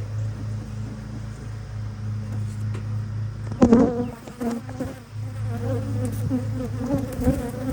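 Honeybees buzzing around an open hive, with one bee flying close to the microphone about three and a half seconds in: a loud buzz that wavers in pitch as it circles and stays near.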